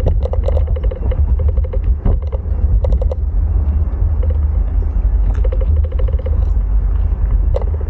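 Wind buffeting the microphone during a bike ride, a steady low rumble, with scattered clicks and short runs of quick ticking.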